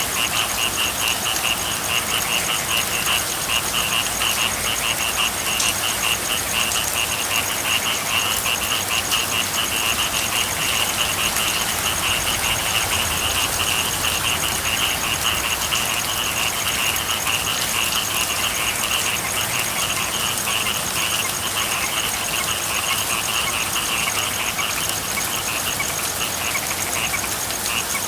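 A chorus of frogs calling in a fast, continuous pulsing trill over the steady hiss of falling rain.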